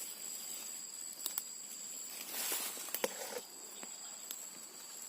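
Insects, crickets or cicadas, keeping up a steady high-pitched drone on two tones, with scattered snaps and rustles of undergrowth as someone walks through it searching.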